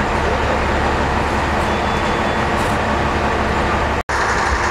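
Heavy fire-truck engines idling, a steady low rumble. The sound cuts out for an instant about four seconds in.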